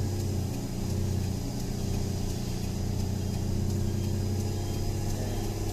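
Truck engine running steadily in a low gear on a steep downhill, a steady low drone from an engine held back in gear on the descent.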